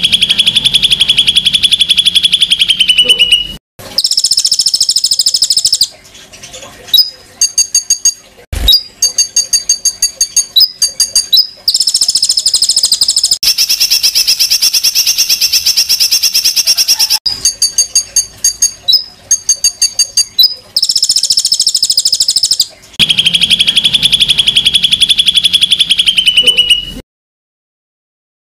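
Recorded songbird song played as a masteran tutor track: long runs of rapid, rough, evenly repeated notes in high trills, broken in places into short sharp phrases, cut off suddenly near the end.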